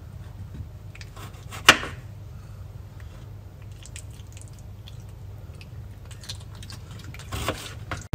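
A kitchen knife cutting cucumber on a plastic cutting board: one sharp knock about two seconds in, then scattered faint small clicks and a short scrape near the end, over a low steady hum.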